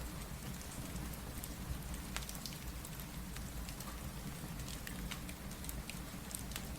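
Steady rain with scattered sharp crackles, mixed with a crackling fireplace.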